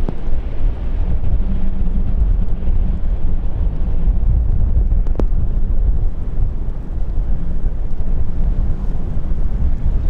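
Low, steady rumble of a jet airliner's engines at the airport, mixed with wind buffeting the microphone, with a single short click about five seconds in.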